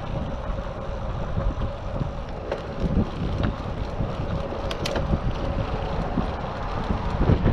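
Wind buffeting the microphone of a GoPro Hero 7 on a moving bicycle, a dense gusting rumble, with a few sharp clicks from the bike midway through.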